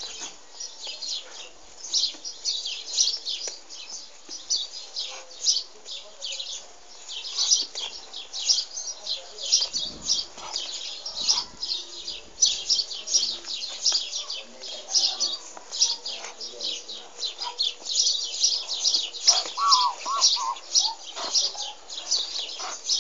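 Small birds chirping and twittering continuously in quick, high notes, with a few lower, wavering notes about twenty seconds in.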